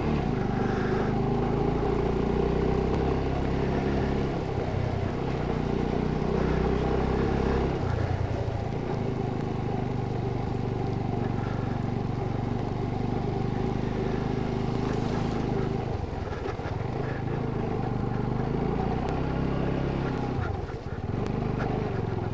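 Motorcycle engine running steadily at low revs, easing off briefly a few times.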